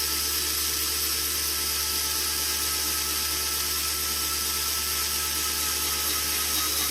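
Steady electrical hiss with a low mains hum and a faint high whine, no guitar playing.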